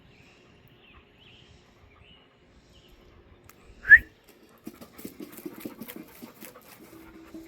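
A single short, loud, rising whistle just before four seconds in, over faint high chirps, followed by a few seconds of irregular scuffling and clattering.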